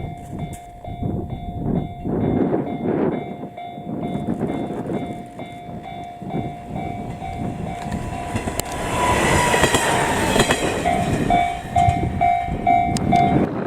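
Level-crossing warning bell ringing steadily while a KiHa 40 diesel railcar approaches and passes, its wheels knocking over the rail joints. The pass is loudest about nine to eleven seconds in, with a brief slightly falling tone near the same moment. Near the end the bell rings on in a pulsing pattern.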